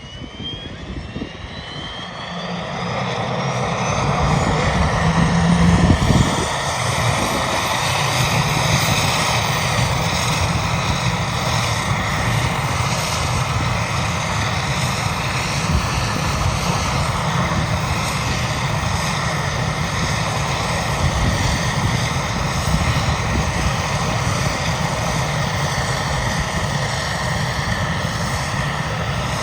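Agusta-Westland EH-101 Merlin helicopter's turbine engines spooling up: a thin whine climbs steadily in pitch over the first several seconds as the sound grows louder. It then settles into a steady, even running.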